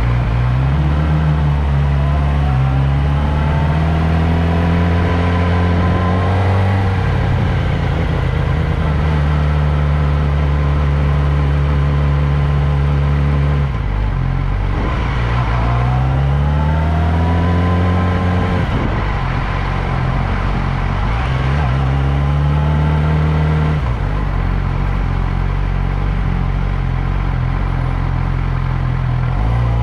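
Motorcycle engine accelerating through the gears, its pitch climbing and dropping back at each shift, with stretches of steady cruising in between. It slows about 14 seconds in, pulls away again, then settles to a lower steady run for the last several seconds.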